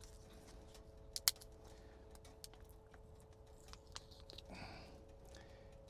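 Faint scattered clicks and light knocks of cooking gear being handled, with one sharper click about a second in, over a faint steady hum.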